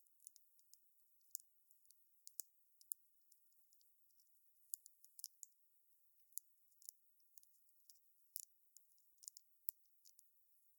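Wood fire crackling: irregular sharp pops and snaps, a few louder ones among many faint ones, over a faint hiss.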